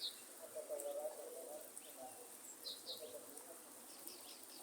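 Birds calling in a forest: low, wavering cooing-type calls, with short high chirps at the start, about two and a half seconds in and near the end, over a faint steady hiss of light rain.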